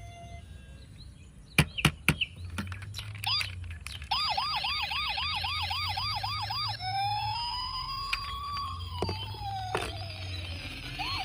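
A few sharp clicks, then a toy vehicle's electronic siren: a fast repeating whoop about three times a second, switching to a slow rising and falling wail, and back to the fast whoop near the end.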